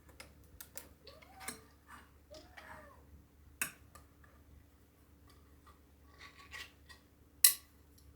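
Scattered sharp clicks and light knocks of small hard objects being handled, the loudest two about halfway through and near the end. In the first few seconds a cat meows faintly twice.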